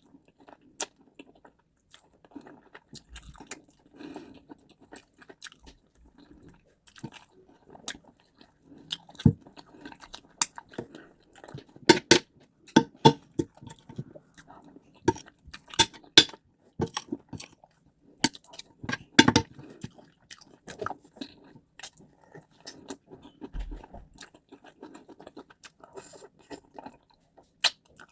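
Close-up chewing and wet mouth sounds of someone eating white rice and stew, with many irregular sharp smacks and clicks that grow busiest and loudest in the middle.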